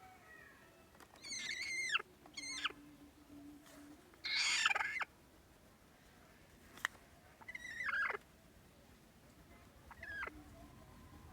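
Mother hen giving angry calls: about five drawn-out cries with falling pitch, spaced a second or more apart. The loudest, about four seconds in, is a harsh, raspy squawk.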